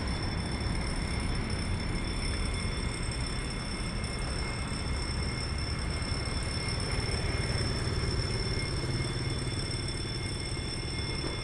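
Container freight train running past, a steady rumble of wheels on the rails with a thin steady high whine above it.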